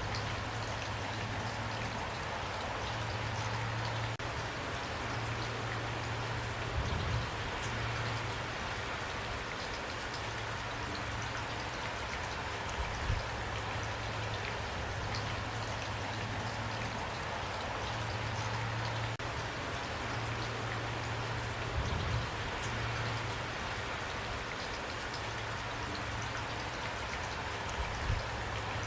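Steady rainfall, an even hiss of drops, with a few brief low thuds spread through it.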